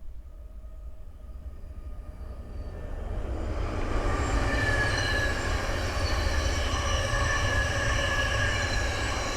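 Thameslink Class 700 electric multiple unit approaching and passing on the main line. It grows louder over the first four seconds, then carries on with a whine of several high tones that fall slightly in pitch.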